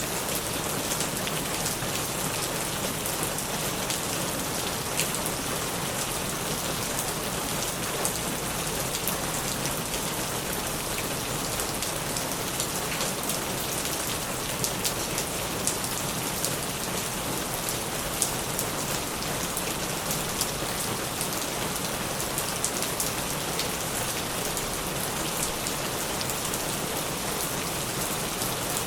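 Heavy rain falling steadily, a dense even hiss with many single drops striking as sharp ticks.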